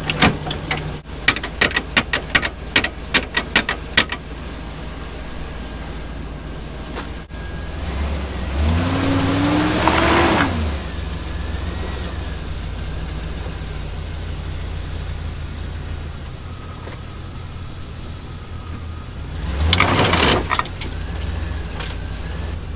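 Plow truck engine idling while the truck is eased into position to hook up a snow plow, with a quick run of clicks and clanks in the first few seconds and two brief rising-and-falling surges, one about eight seconds in and one about twenty seconds in.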